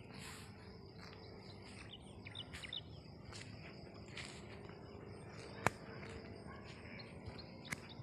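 Rural outdoor ambience: insects buzzing in repeated high-pitched pulses, with a few short bird chirps about two and a half seconds in. A sharp click about five and a half seconds in, and a smaller one near the end.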